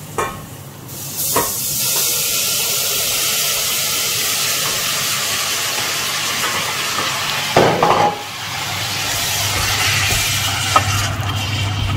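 Diced fresh tomatoes landing in hot oil and garlic in a stainless steel saucepan, setting off a steady sizzle about a second in. A short knock about eight seconds in, and a low hum comes in near the end.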